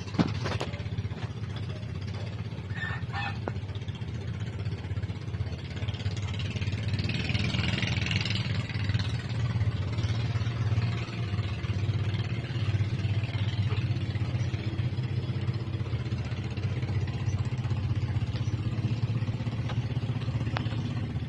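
An engine running steadily with a low, even hum, and a brief click near the start.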